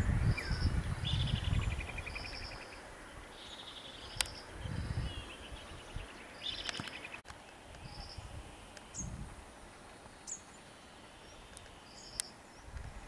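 Birds calling: short high chirps repeated every second or so, with a few rapid trills. Irregular low rumbles underneath are strongest in the first two seconds and then fade, and a few sharp clicks come later.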